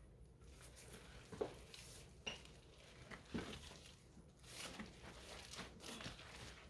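Faint scattered knocks and clinks with some rustling, from a heavy delivered box being handled and shifted.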